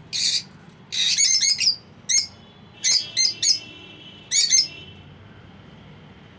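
Lovebirds chirping: short, high-pitched chirps in quick clusters, about five bursts in the first five seconds, then a pause near the end.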